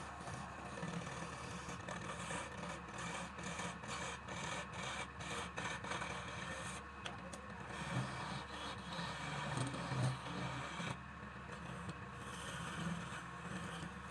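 A wood lathe running while a turning tool scrapes against the spinning palm wood. The scraping is broken into short repeated strokes in the first half.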